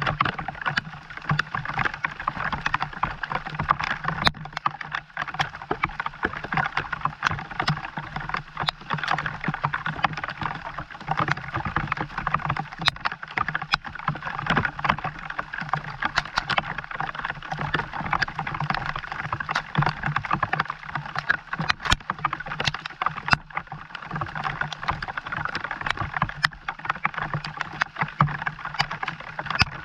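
Steady rain, with many separate drops striking close by, over a constant low hum.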